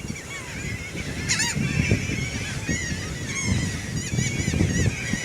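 A flock of birds calling over and over in many short, overlapping squawks, crowding in to be fed. Wind rumbles and buffets the microphone underneath.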